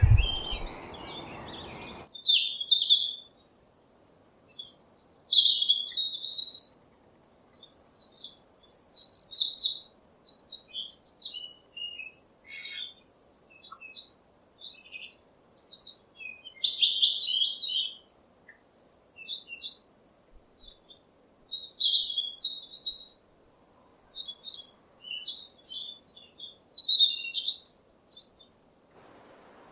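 Bird chirping and twittering in quick clusters of short, high calls and warbled phrases, with brief pauses between them.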